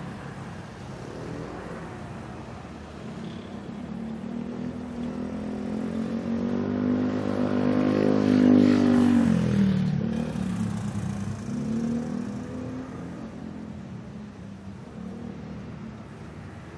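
City street traffic with a steady background hum. About halfway through, a motor vehicle approaches and passes close by, getting steadily louder. Its engine note drops in pitch as it goes past, and a smaller vehicle passes a few seconds later.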